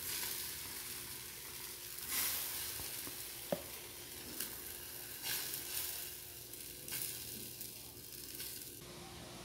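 Egg and grated-zucchini batter sizzling in a small nonstick frying pan as it is spread with a silicone spoon, with a few soft scrapes and one small knock about three and a half seconds in. The sizzle cuts off shortly before the end.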